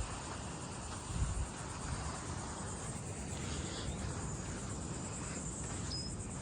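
Insects, crickets by the sound of it, chirring in a steady, high-pitched trill, with a low rumble underneath and a brief high whistle near the end.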